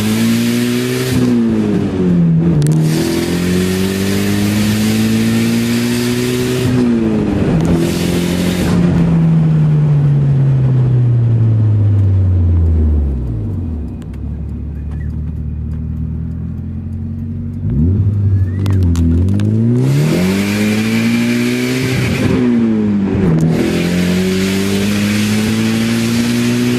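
A turbocharged car engine heard from inside the cabin, pulling hard through the gears. The pitch climbs and drops at each gear change, and a turbo hiss rises with each pull and cuts off at the shifts. About halfway through the revs fall away to a steady idle for a few seconds, then the car accelerates through the gears again.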